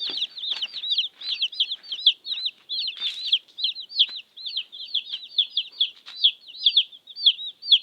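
A group of baby chicks peeping nonstop: many short, high peeps a second, overlapping one another.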